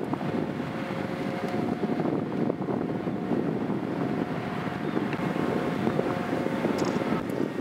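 Wind buffeting the microphone over a low, steady engine drone, with faint steady hum tones.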